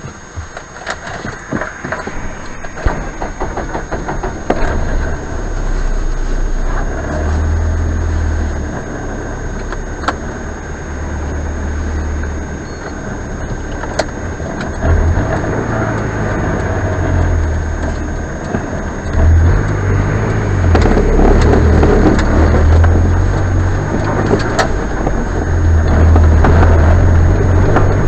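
A delivery vehicle's engine starting and then running, its low engine note stepping up and down several times.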